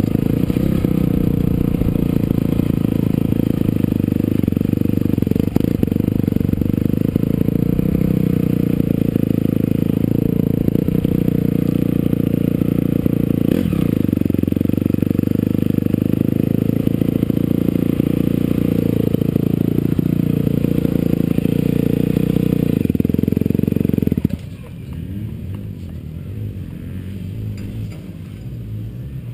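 Honda CRF250R four-stroke single-cylinder motocross engine running hard and steady, with small rises and falls in pitch. About 24 seconds in it drops suddenly to a much quieter, rougher running.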